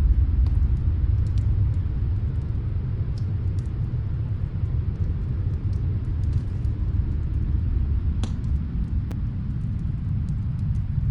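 Steady low rumble of snowstorm wind, with faint, sparse crackles and pops from a wood fire in another room; one louder pop about eight seconds in.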